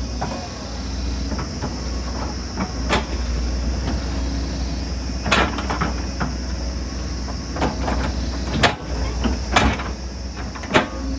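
Excavator's diesel engine running steadily, with a series of sharp knocks and clanks over it, five of them loudest.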